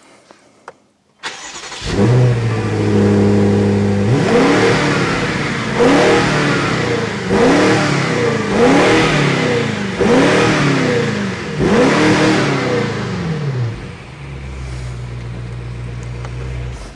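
BMW X6M's twin-turbo V8 on its stock exhaust starts up about a second in with a flare and settles to a fast idle. It is then blipped about six times, each rev rising and falling back, with no pops or bangs, before dropping to a steady idle near the end.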